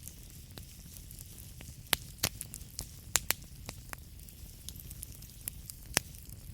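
Wood fire burning in a fireplace: a steady low rumble and hiss of flames, with sharp crackles and pops from the burning logs scattered irregularly. The loudest pops come about two, three and six seconds in.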